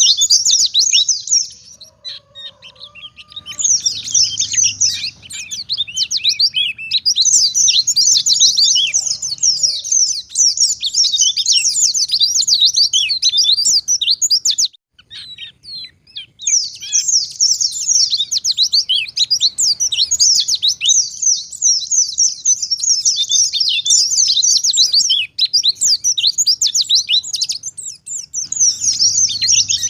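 White-eye (pleci) in full song: a long, fast, high twittering run of rapid notes, breaking off briefly about two seconds in and again around the middle before resuming.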